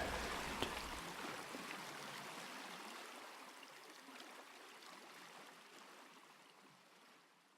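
A gong's hissing shimmer dying away after a single strike, fading steadily to near silence.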